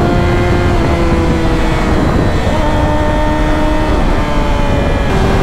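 Yamaha R6's inline-four engine running at a steady, fairly high pitch while riding, over a low rumble of wind noise. The pitch eases down a little about two seconds in and rises again near the end as the throttle changes.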